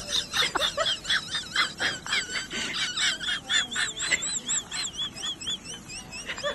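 Birds chirping: rapid, high-pitched repeated calls, several a second.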